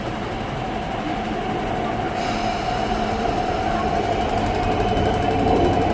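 MTR East Rail line train running at the station with a steady whine, growing slowly louder. A high hiss joins about two seconds in.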